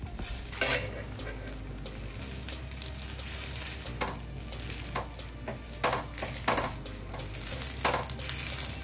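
A folded, paneer-stuffed batter crepe sizzling in a little oil on a tawa griddle as a steel spatula presses and scrapes it. Several sharp clicks of the spatula against the pan come at irregular moments, loudest near the start and again about six seconds in.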